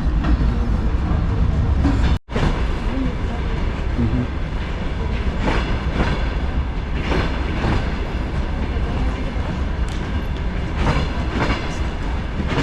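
DPL-1 diesel train running on the line: a steady low rumble, with the wheels clicking over rail joints in pairs, clickety-clack. The sound breaks off briefly about two seconds in.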